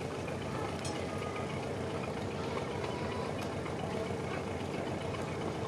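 A boat's engine idling steadily, with a fast, even low throb.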